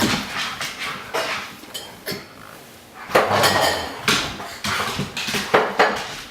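Metal cutlery and dishes clinking and clattering as they are taken out of a dishwasher and put away: a string of clatters, the loudest about three seconds in.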